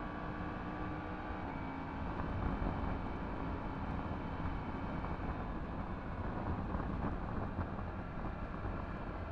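Yamaha MT-10 SP's crossplane inline-four with an Akrapovič exhaust running steadily on the move, mixed with wind rushing over the microphone.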